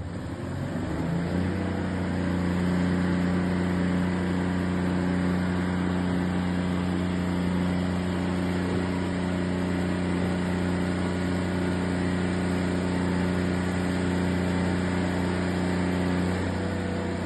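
A machine running with a loud, steady low drone that starts about a second in and stops near the end, likened to the noise of a B-52 bomber.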